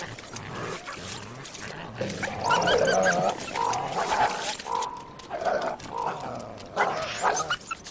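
Coyotes snarling and yelping in a run of short growly calls, with scattered clicks between them.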